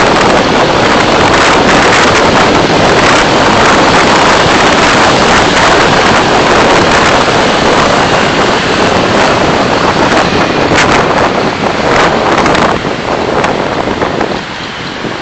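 Loud rushing noise of a moving car picked up by its dashcam microphone, with scattered light taps; it eases a little near the end.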